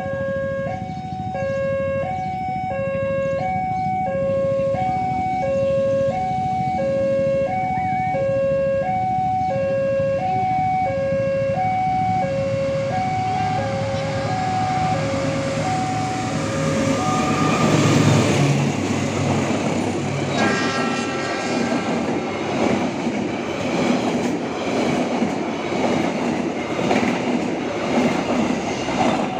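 Railway level-crossing warning alarm sounding a two-tone ding-dong, the tones alternating about once a second, while a train approaches. A little past halfway the Argo Parahyangan express arrives and passes close by at speed. The loud rumble of the diesel locomotive gives way to rapid, regular clacking of the carriage wheels over the rail joints, drowning out the alarm.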